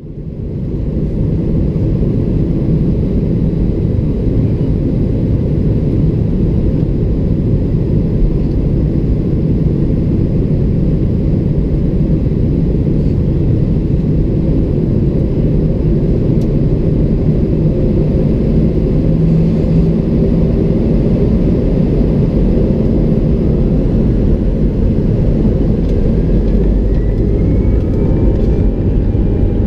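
Steady deep rumble of an Airbus A319's jet engines and airflow heard from inside the passenger cabin, with a faint rising whine near the end.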